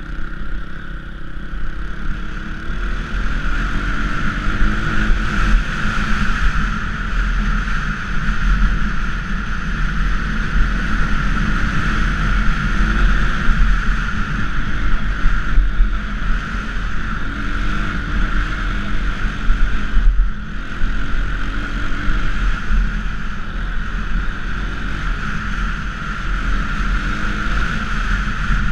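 230cc dirt bike's single-cylinder four-stroke engine running under way, its revs rising and falling over and over, with two brief drops in engine sound partway through.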